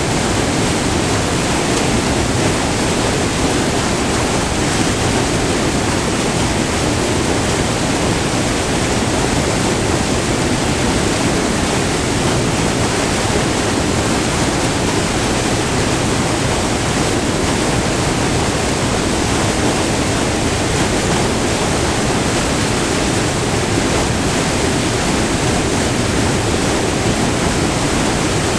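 Small multi-tiered waterfall on a river, white water pouring over rock in a steady, unbroken rush.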